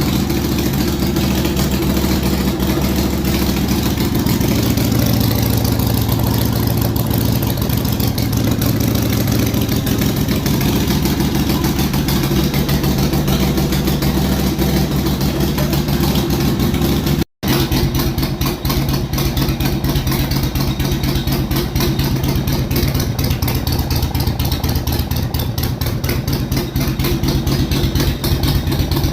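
Harley-Davidson Iron 883's air-cooled 883 cc V-twin idling fast and loud through Vance & Hines Shortshots exhaust just after a cold start, still at raised cold-engine RPM. The sound drops out for an instant a little past halfway.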